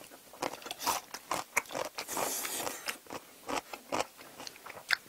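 Close-up crunching and chewing of kkakdugi, cubed radish kimchi: a run of sharp, irregular crunches, thickest about two seconds in.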